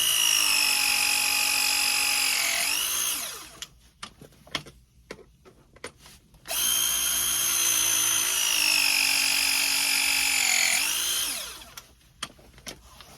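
Milwaukee M12 short-throw ProPress tool crimping ProPress fittings onto copper pipe: two press cycles of about five seconds each. In each, the motor whine falls slowly in pitch, then dips and jumps back up just before it stops. A few clicks of handling come in the gap between the cycles.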